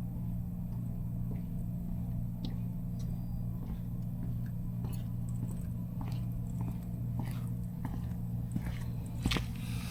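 Steady low drone of a semi-truck's engine heard inside the cab, with scattered small clicks and rustles that become more frequent in the second half.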